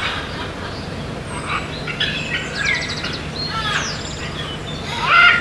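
Indian green parrots calling: a string of short chirps and harsh squawks, some sliding in pitch, with a quick rattling call about halfway and the loudest squawk near the end.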